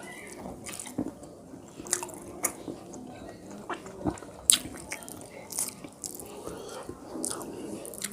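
Close-miked chewing and lip-smacking of a person eating rice and fish curry, with irregular wet mouth clicks, the loudest about four and a half seconds in.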